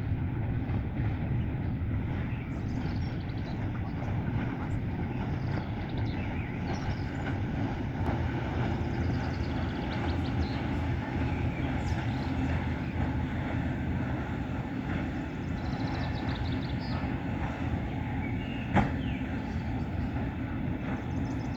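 Steady low engine drone with no rise or fall, and one sharp click about nineteen seconds in.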